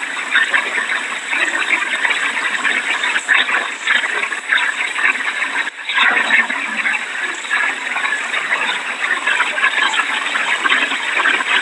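Hurricane wind and heavy rain rushing steadily, with a brief lull about six seconds in.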